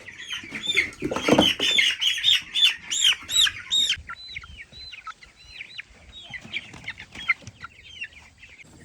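Baby meat chicks peeping in a rapid chorus of short, high cheeps, loudest for the first four seconds and then fainter, with a brief rustle of handling about a second in.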